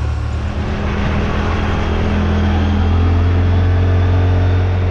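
Side-by-side UTV engine running under way, heard from on board with tyre and road noise, its pitch and loudness rising a little about halfway through as it picks up speed.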